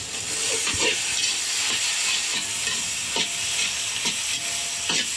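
Chopped tomatoes and onions sizzling in oil in a large wok, with a ladle scraping through them in strokes about once a second.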